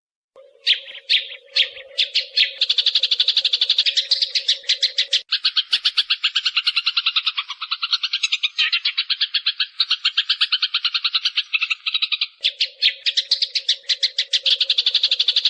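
Recorded sparrow calls played as a trapping lure: after a moment of silence a few spaced chirps, then fast unbroken runs of chirps at about ten a second. A steady low hum lies under the calls except through the middle stretch.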